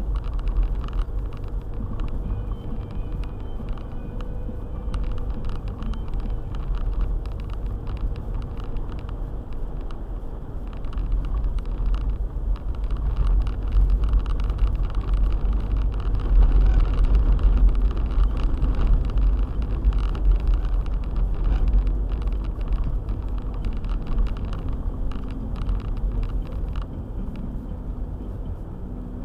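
Car driving on a snowy road: a steady low rumble of engine and tyres that grows louder about halfway through, then eases off.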